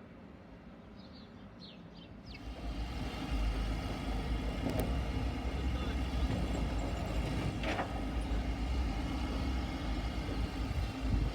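Birds chirping, then about two seconds in a train comes up and passes with a steady low rumble and a hum of engine or motor tones, with two short clicks along the way.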